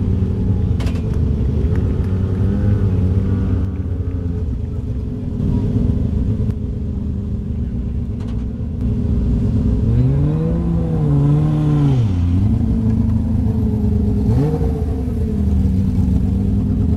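Porsche 911 rally car's flat-six engine idling, revved and held for about two seconds about ten seconds in, then blipped once more briefly a few seconds later.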